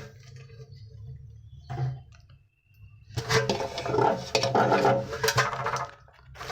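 Mini washing machine running, a low hum at first, then from about three seconds in a loud rough churning of the motor and agitator that dies down near the end.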